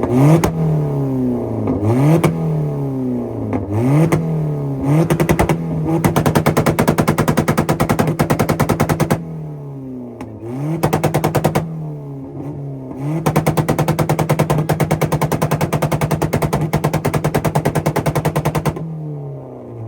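Honda Civic engine with a side-dump exhaust, blipped up and down several times, then held against a two-step launch limiter, which makes a rapid popping like machine-gun fire. It bangs on the limiter twice for several seconds each, with a short dip and stutter between, and the revs fall away near the end.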